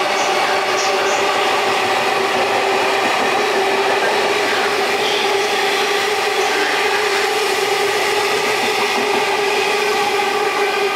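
Freight train of container wagons rolling through a station at speed: a loud, steady rumble of wheels on rail with a steady whine running through it.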